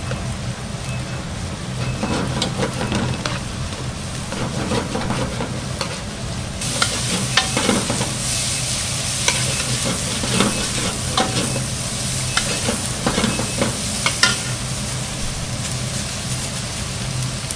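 Food frying and sizzling, with frequent clinks and knocks of utensils. The sizzling grows much louder about a third of the way in, over a steady low hum.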